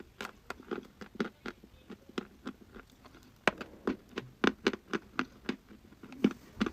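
Dry chalk being bitten and chewed close to the microphone: a steady run of sharp, crisp crunches, about three or four a second.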